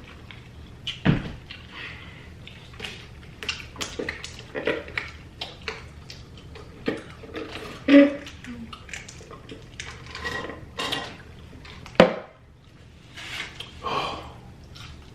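Close-miked eating of chicken wings: wet chewing and lip smacking with many small clicks, and sharp knocks about a second in, around eight seconds and at twelve seconds.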